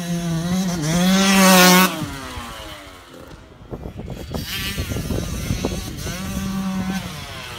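A 65 cc dirt bike engine, a two-stroke, revving hard for the first two seconds and then dropping off. A stretch of clattering follows, and the engine revs again from about five to seven seconds in.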